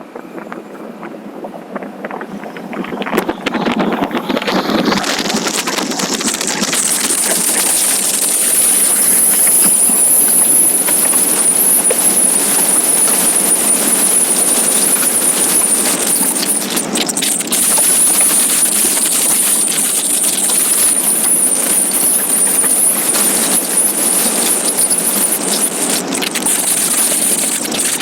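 Wind rush and road noise on the microphone of a riding motorcycle. It builds over the first several seconds as the bike gathers speed, then holds as a steady loud rush with a thin high whine running through it.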